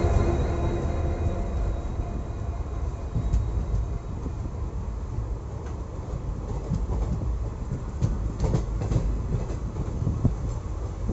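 Passenger train running along the track, a steady rumble with a few sharp clicks of wheels over rail joints, bunched about eight to nine seconds in.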